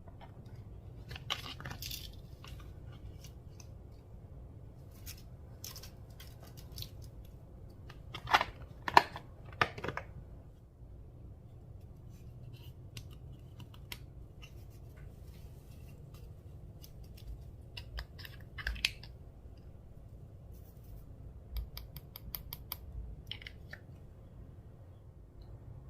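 Slime being handled and mixed, making scattered sticky clicks and crackles, with a few louder snaps about eight to ten seconds in and again near nineteen seconds.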